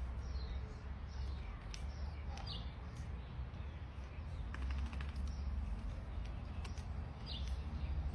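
Faint short bird chirps, each falling slightly in pitch, with a few light clicks over a steady low rumble.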